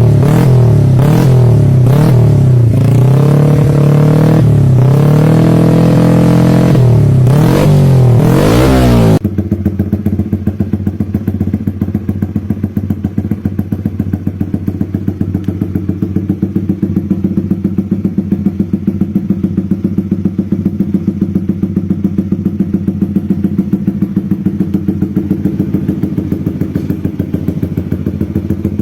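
Motorcycle on a Pro Liner aftermarket racing exhaust revved repeatedly, the pitch rising and falling with each blip of the throttle. About nine seconds in the sound cuts to a motorcycle on a racing exhaust idling steadily with a regular pulsing beat.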